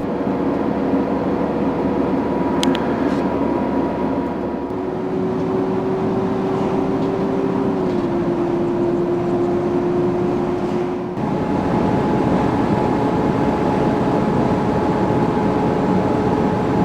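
Truck driving along at steady speed: engine and road drone under a steady hum whose pitch steps down a little about five seconds in, then jumps to a new note about eleven seconds in.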